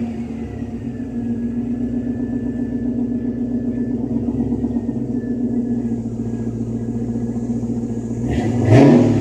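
2001 Mustang GT's 4.6-litre V8 running through Flowmaster 40 Series mufflers and a Mac Pro Chamber, idling steadily, then one quick rev near the end that rises and falls back to idle.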